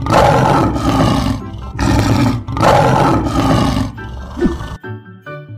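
Lion roaring: several rough roars in quick succession over a background music track. The roars cut off near the end.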